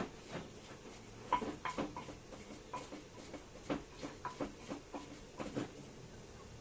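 An irregular run of light knocks and clinks from kitchen utensils being worked, some with a short ring, bunched in the middle of the stretch.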